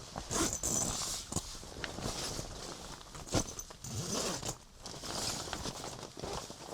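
Several short rasping, rustling bursts, each a second or less long, with a few sharp clicks among them.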